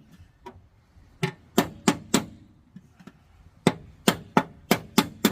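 Hammer striking bent car-body metal in quick runs of sharp knocks, about three a second: a faint tap, a run of four, then a run of five or six, as collision damage is beaten out.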